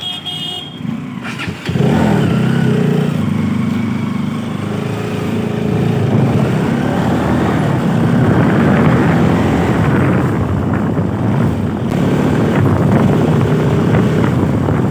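Motorcycle engine running under way, with a dense, steady low note that gets much louder about two seconds in.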